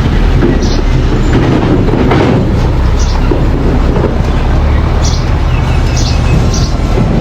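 Mini bulldozer running under load, its engine rumbling steadily while the tracks give short high squeaks about once a second.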